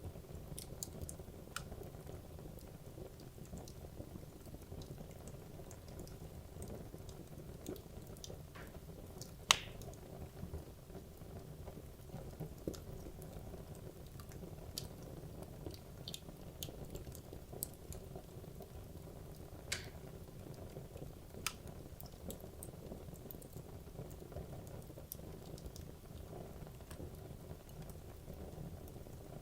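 Wood logs burning in a fireplace: a steady low rush of flame with scattered crackles and pops, one sharp loud pop about nine and a half seconds in.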